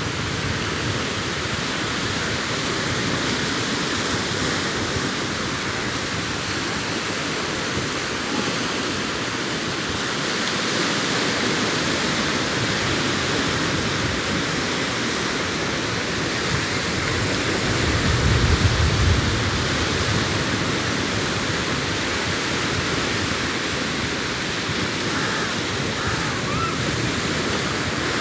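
Sea surf breaking and washing on a sandy beach, a steady rushing noise, with a short louder low rumble about two-thirds of the way through.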